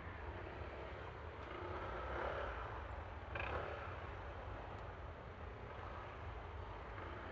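A Yamaha Aerox V3 scooter on the move: its single-cylinder engine runs with steady low road and wind rumble, swelling briefly louder a little after three seconds in.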